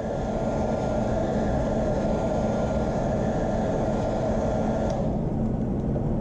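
Steady rumbling background noise, like a running machine or distant traffic. A faint high tone over it stops with a small click about five seconds in.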